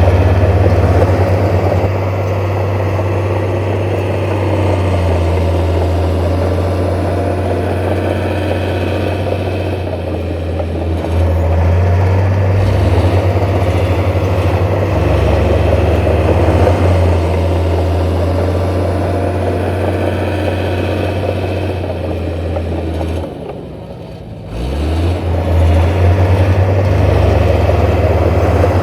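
Heavy diesel engine of earthmoving machinery running steadily at a low hum. Near the end it dies down for about a second, then comes straight back up.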